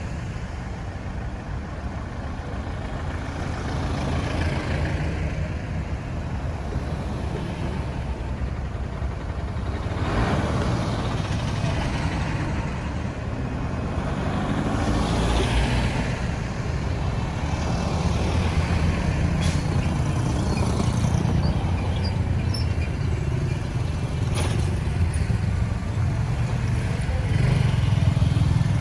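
Road traffic: engines running with a steady low rumble, and vehicles passing, the loudest about ten and fifteen seconds in. A few short clicks come later.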